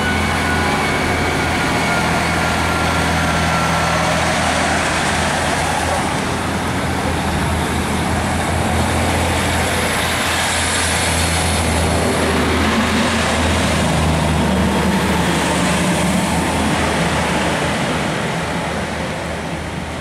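Diesel multiple-unit passenger train pulling away through the station, its underfloor diesel engine giving a steady low drone over the rumble of wheels on the rails. The sound eases off near the end as the train draws away.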